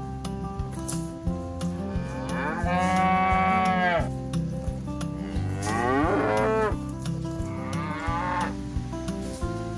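Cattle mooing three times: a long, loud moo about two seconds in, then two shorter ones, over background acoustic guitar music.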